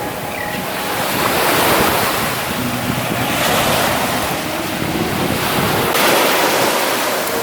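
Ocean surf washing onto a beach, the noise swelling and easing as the waves come in, with wind buffeting the microphone.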